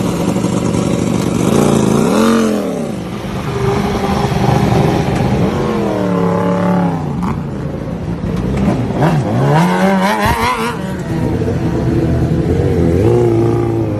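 Sport motorcycle engines revving hard, their pitch climbing and falling away several times in a row.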